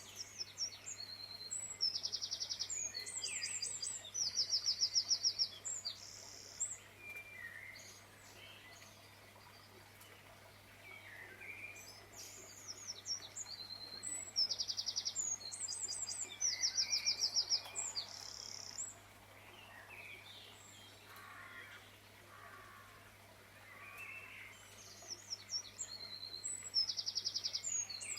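Songbird singing: the same few-second phrase of rapid, high-pitched repeated notes and trills comes three times, about twelve seconds apart, over a faint steady low hum.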